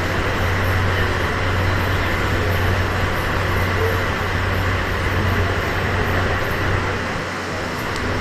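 DD51 diesel-hydraulic locomotive's engines running steadily, a constant low hum over a broad rumble, easing slightly near the end.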